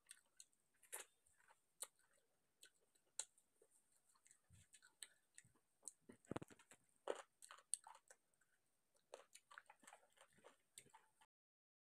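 Close-miked chewing of rice and chicken kosha: irregular wet mouth clicks and smacks, the loudest bites a little past the middle. The sound cuts off suddenly near the end.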